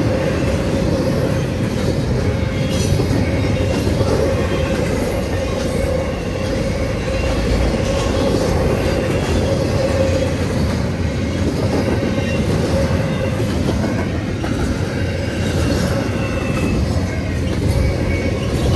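CSX freight train of intermodal cars and autoracks rolling through a grade crossing at speed: a loud, steady rumble and rattle of steel wheels on rail that keeps up with no let-up.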